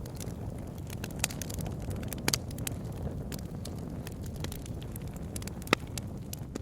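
Wood bonfire burning: a steady low rush with irregular sharp crackles and pops from the burning wood, one louder pop near the end.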